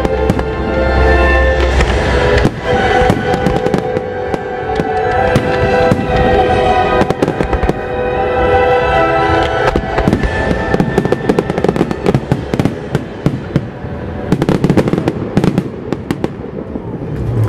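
Fireworks popping and crackling, with many sharp reports, over loud music. The music fades out about two-thirds of the way in while the crackling carries on.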